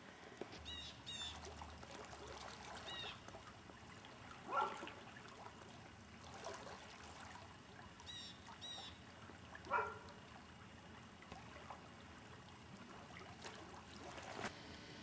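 Faint birds calling by a river: a small bird chirps high double notes several times, and two louder short calls come about four and ten seconds in. A faint trickle of running water underneath.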